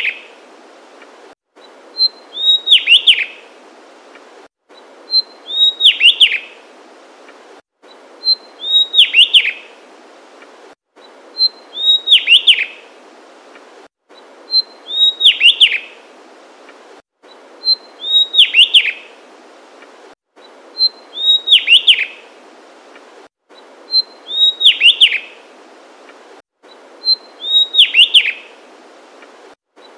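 Javanese tesia singing the same short phrase over and over, about every three seconds: a high note, then a quick run of three or four falling whistles. Faint hiss fills the gaps, with a brief drop to dead silence before each phrase.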